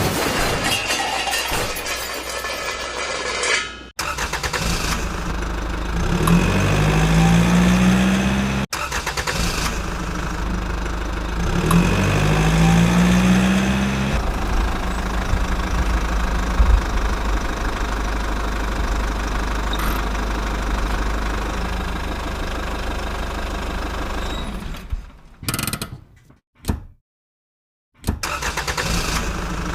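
An engine running and idling, revving up twice with a rising pitch, heard in several short clips that cut off abruptly.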